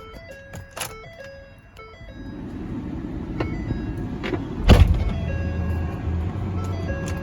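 Dashboard warning chimes beeping, then the 2012 Ford F-550's 6.7L Power Stroke V8 diesel cranking, catching with a sudden low burst about four and a half seconds in, and settling into a steady idle.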